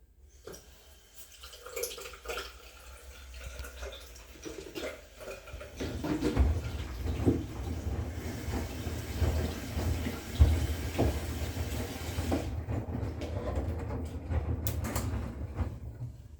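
Washing machine with water running in and sloshing. From about six seconds in, a louder low rumble with scattered knocks joins it, and it dies down just before the end.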